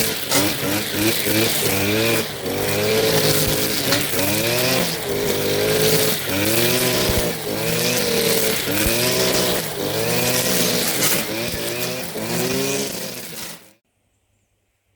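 Stihl FS 120 two-stroke petrol line trimmer, its engine revving up and down about once a second as it cuts dry grass. The sound cuts off suddenly about a second before the end.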